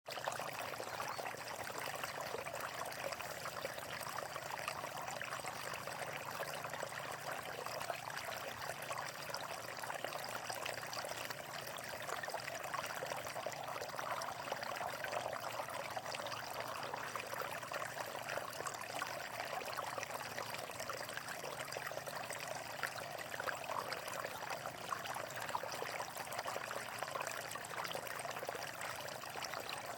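Water flowing and trickling steadily, a close, even splashing like a small stream or water pouring over rocks.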